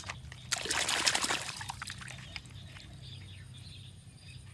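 Water poured or splashed briefly over a toy car as it is cleaned, a dense rush about half a second in that lasts about a second, followed by a few faint small clicks of handling, over a steady low hum.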